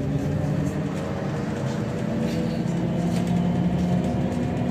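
Trolleybus heard from on board while it runs: the hum of its electric traction drive, with tones that shift in pitch as its speed changes, over road rumble.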